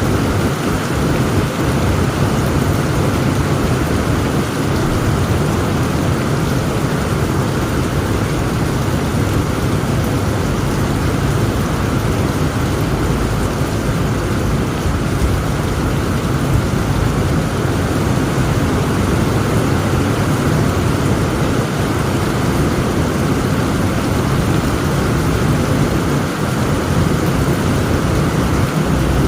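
Heavy rain falling steadily, with a constant deep rumble underneath from the thunderstorm; the sound stays even throughout, without sharp thunderclaps.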